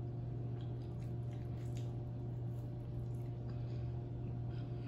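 Soft, wet chewing of a mouthful of rotisserie chicken, with a few faint small clicks, over a steady low hum.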